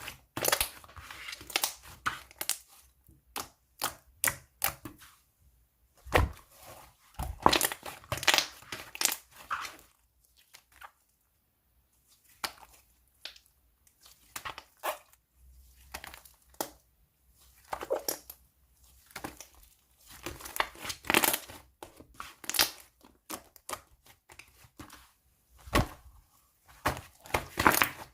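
Hands squishing, folding and stretching toffee slime, giving irregular bursts of crackling and popping clicks with short pauses between handfuls.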